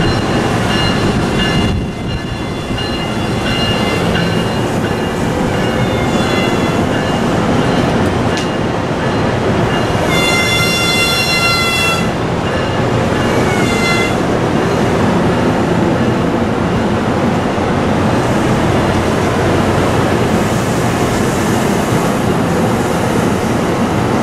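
MARC bilevel commuter coaches rolling past with a steady rumble of wheels on rail. Faint high-pitched squealing runs through it, and a louder squeal of several high tones together lasts about two seconds midway. A brief falling squeal follows a couple of seconds later.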